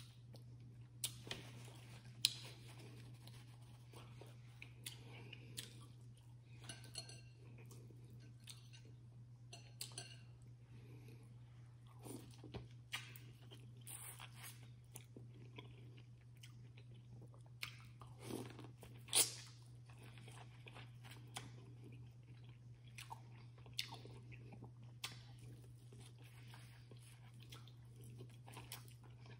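Close-miked eating of a seafood boil: chewing and crunching with scattered sharp clicks and snaps, the loudest about two seconds in and near the middle, over a steady low hum.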